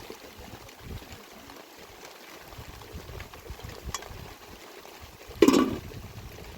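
Steady water noise, like running or trickling water, with one short, loud sound about five and a half seconds in.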